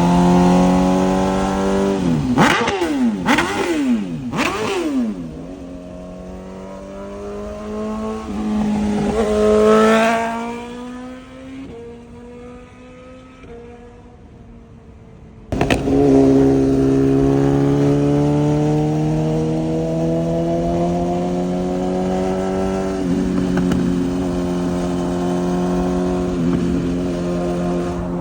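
BMW S1000RR inline-four engine through a titanium full exhaust. It holds a steady note, swings sharply down and up in pitch three times, climbs in pitch under acceleration and fades away, then comes back abruptly at a steady high-speed note with a drop in pitch about three-quarters through, like an upshift.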